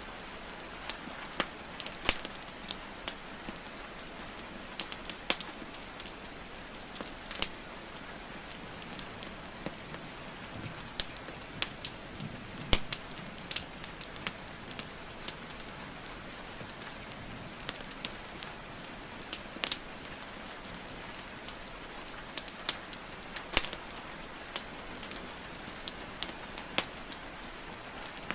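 Wood fire crackling, with irregular sharp pops and snaps of burning logs, over the steady hiss of falling rain.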